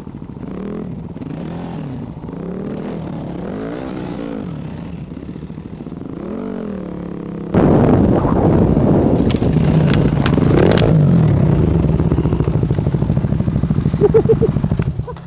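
Enduro dirt bike engine revving up and down in repeated bursts. About halfway through it becomes much louder and stays up.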